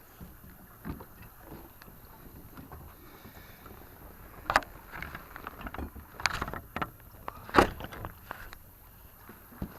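Irregular knocks and clatter of gear and handling on a plastic fishing kayak as the angler works a snagged line. The sound is sparse at first, then busier from about halfway, with two sharper knocks standing out.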